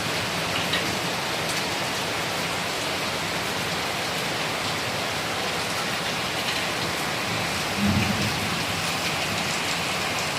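Heavy rain pouring steadily in a thunderstorm, with one short, low rumble of thunder about eight seconds in.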